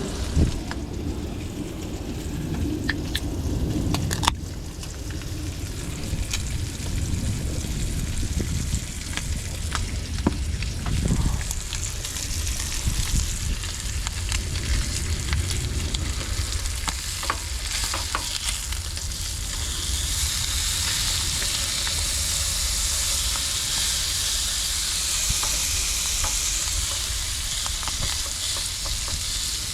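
Hot dogs sizzling in a frying pan, with scattered sharp clicks and pops. About two-thirds of the way through, the sizzle grows louder and steadier.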